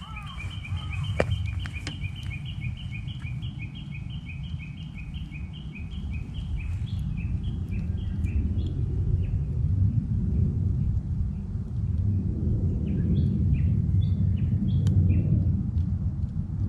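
Japanese bush warbler (uguisu) calling in a long run of quick, evenly repeated two-note calls that slowly fade out about halfway through, then a short burst of song near the end. Underneath is a steady low rumble, with a couple of sharp snaps from the campfire early on.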